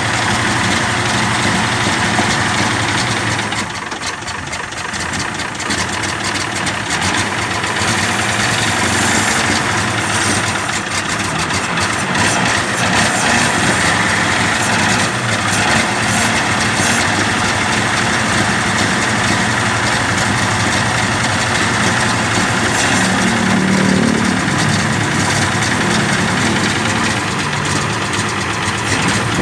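1946 Chevrolet truck's 235 cubic-inch inline-six engine running at a steady idle, dipping slightly in level for a few seconds about four seconds in.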